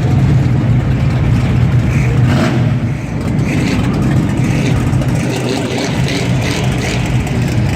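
A car engine running loud and steady with a deep drone.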